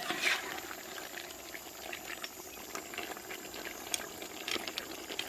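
Pot of curry goat bubbling in the juices the meat has released, with many small irregular pops.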